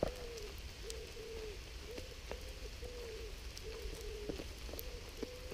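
A pigeon cooing a steady run of short, low, hollow notes, about two a second, with rain dripping and pattering in small ticks.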